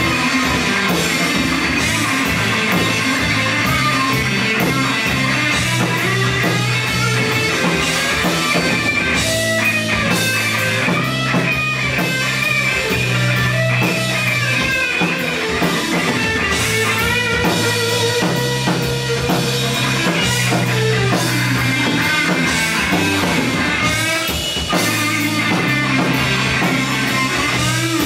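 Rock band playing live: electric guitar over drum kit, loud and continuous, with no words transcribed.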